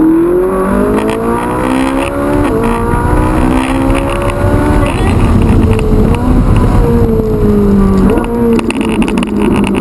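Ferrari 458 Italia's V8 engine accelerating hard from a launch, revs climbing, with upshifts about two and a half and five seconds in, then revs falling as it eases off in the second half.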